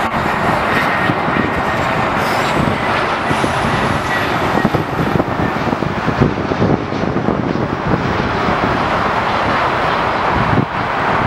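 Jet airliner engine noise, loud and steady, with a faint high whine that climbs in pitch for a few seconds near the start.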